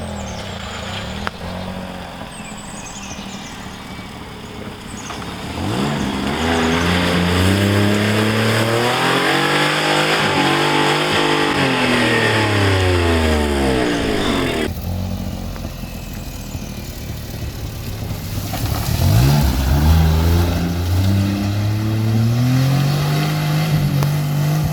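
A small car's engine revving hard while stuck in deep mud, its pitch climbing and then falling over several seconds, with a rushing hiss over it; after an abrupt change it revs up again near the end.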